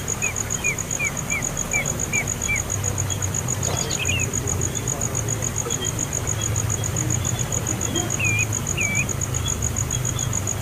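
Small bird calling: a quick run of seven short, downslurred chirps in the first few seconds, one call about four seconds in and two more near the end. Behind it an insect trills steadily on a high, rapidly pulsing note, over a low rumble.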